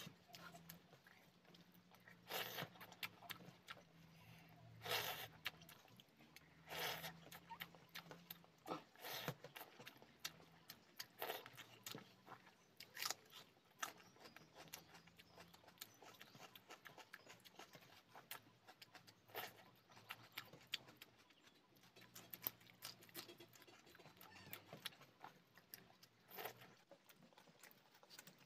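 Mouth sounds of a person eating rice and chicken curry by hand: wet chewing and lip smacks, with irregular sharper smacks every second or two.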